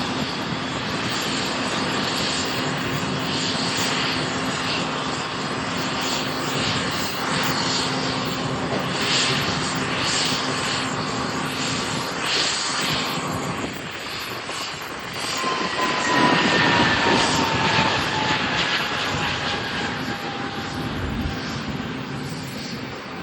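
Airliner engines running close by at an airport. About two thirds of the way in the noise swells and a whine sinks slowly in pitch as the aircraft passes.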